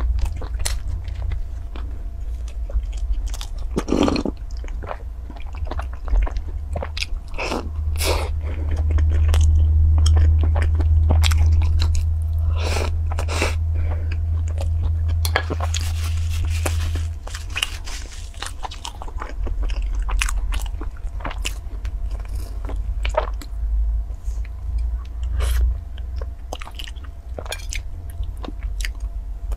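Close-up chewing and biting of soft sweet bread buns with a crackly crust topping: irregular moist chews with occasional crisp crunches, over a steady low hum.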